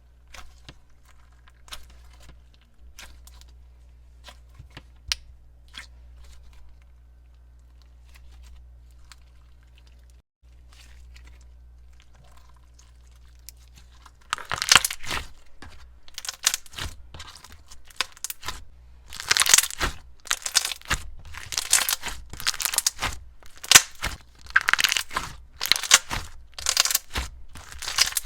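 Slime being squeezed and stretched by hand, crackling and crunching with popping air bubbles. Only faint clicks over a low hum in the first half, then loud, dense crackling from about halfway.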